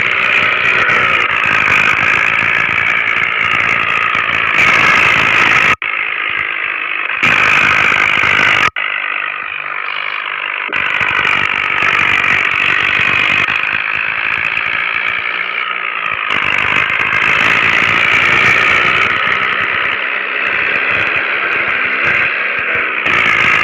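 Mini tractor engine running under load while pulling a heavily loaded trolley. The sound is loud and steady and breaks off abruptly twice, about six and nine seconds in.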